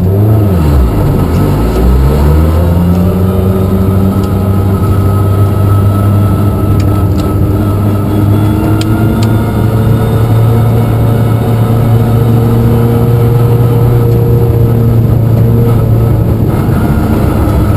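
Small-engined (1400 cc class) rally car's engine heard from inside the cabin, pulling away: the revs dip and climb over the first few seconds, then it runs at a steady, slowly rising note.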